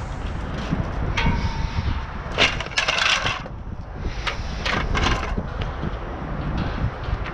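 A chair being taken apart by hand, its bottom pried off: several short bursts of cracking and scraping over a few seconds.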